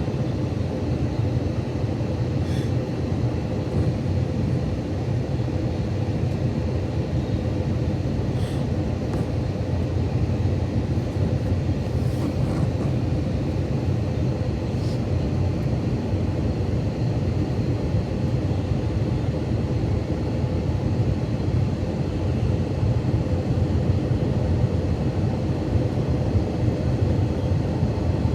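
Steady cabin noise inside an Airbus A321-200 in flight on its descent: a low, even rumble of engines and airflow with a faint steady hum, and a few faint ticks.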